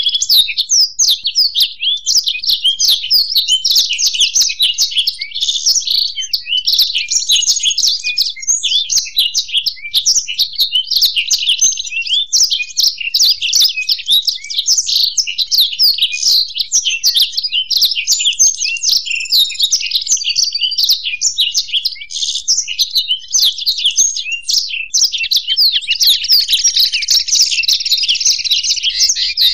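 Blackthroat (black-throated canary) and European goldfinch singing a continuous, fast, twittering song of rapid chirps and trills, with a denser, buzzier trill near the end.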